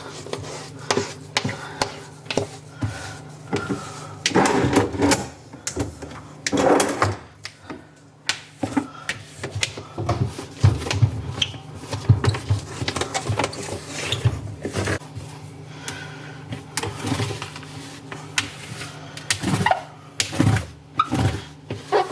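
Cleaning cloth wiping and rubbing over fridge parts being cleaned with white vinegar, with frequent light knocks and clatters of the parts being handled.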